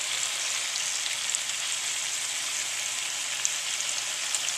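Two whole Anaheim peppers frying in olive oil with chopped garlic in a small pan: a steady sizzle with scattered small crackles.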